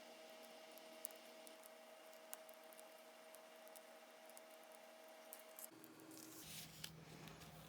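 Near silence: faint, scattered small clicks of hands handling cardstock and adhesive pieces over a faint steady hum, with the background tone shifting about six seconds in.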